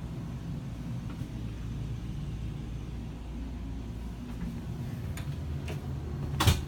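Low, steady rumble with one sharp knock near the end.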